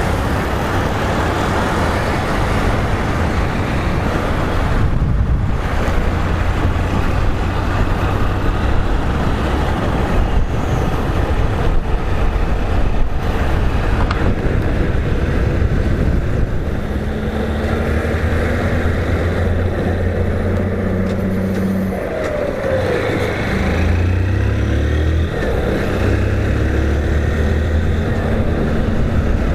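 Motorcycle engine running at road speed under a steady rushing of road and wind noise. The engine note steps up and down several times in the second half.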